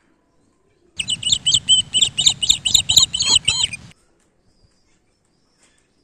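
A bird chirping: a rapid series of about a dozen sharp, repeated chirps, roughly four a second, starting suddenly about a second in and cutting off abruptly about three seconds later, over a low rumble.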